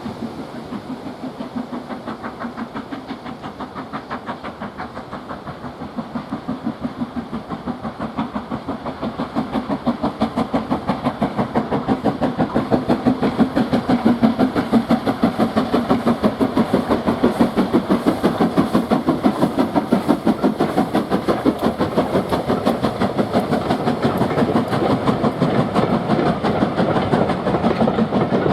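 Steam locomotive working a train, its exhaust beats coming in a fast, even rhythm. It grows louder over the first ten seconds or so as it approaches, then stays loud.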